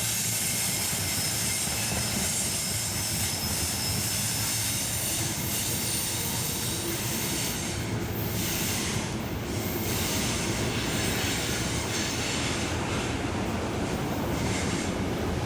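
A train rolling along the track, giving a steady rumble with high-pitched wheel squeal.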